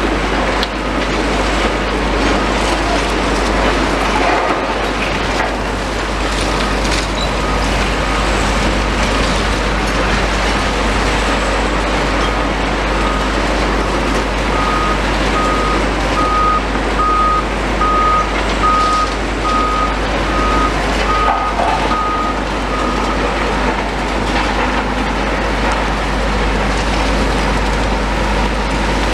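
Heavy demolition machinery running steadily. A vehicle's reversing alarm beeps a little faster than once a second from about a third of the way in, grows louder, then fades and stops about three quarters of the way through.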